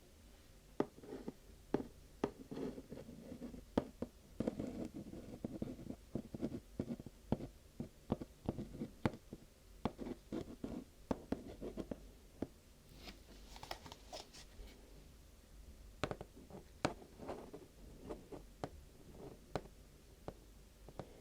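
Fingers tapping and scratching on vinyl, paper or plastic: many irregular light taps over a soft rustle, with a quieter stretch about halfway through.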